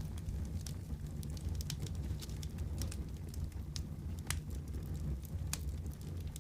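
Wood fire crackling in a fireplace: irregular sharp pops and snaps over a steady low rumble of the flames, with a couple of louder snaps past the middle.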